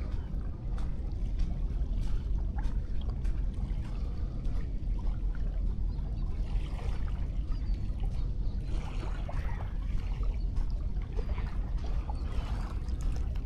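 Gentle sea waves washing onto a sandy beach, with a steady low rumble underneath and softer swells of hiss as the water rushes in several times.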